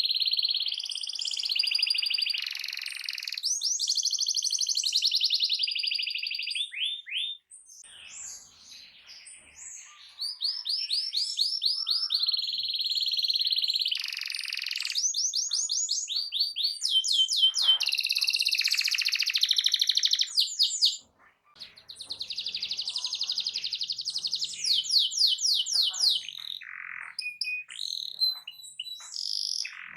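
Domestic canary singing loudly in long runs of fast trilled and rolling notes, broken twice by short pauses.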